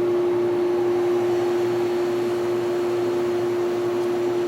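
Window air conditioner running with its compressor on: a steady electrical hum with a strong unchanging tone, under the even rush of the fan moving air.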